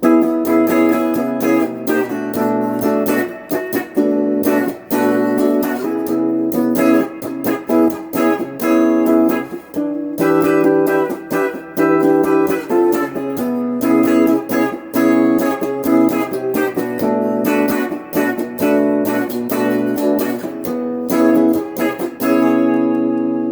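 Electric guitar on its bridge pickup, played through a small Crate GX15R amp: a run of strummed chords and picked notes, with a brief pause about ten seconds in.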